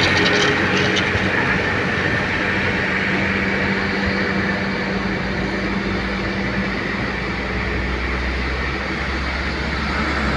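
Heavy truck engine running with a steady low drone, its tone shifting lower about two-thirds of the way through.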